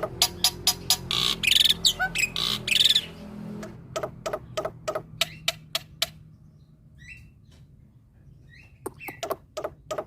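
Black-winged myna (jalak putih) singing: quick runs of sharp clicking notes, with loud harsh calls from about one to three seconds in. A quieter pause follows in the middle, and the clicking starts again near the end.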